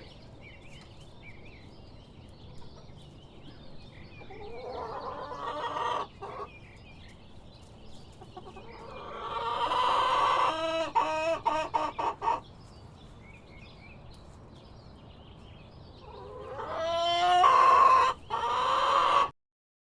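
Rooster crowing three times, each crow a loud drawn-out call of two to three seconds, with hens clucking softly in between. The sound cuts off just before the end.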